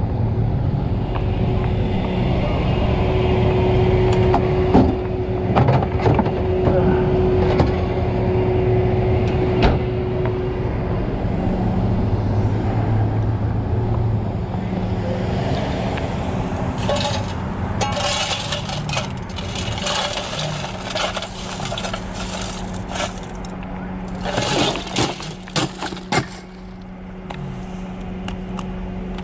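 Vehicle engine idling steadily, with bursts of scraping and clinking in the second half.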